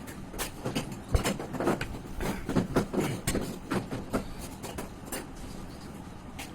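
Close-miked chewing and mouth smacking of a person eating chicken liver curry with rice: many quick, irregular clicks and smacks, busiest in the first five seconds and thinning near the end.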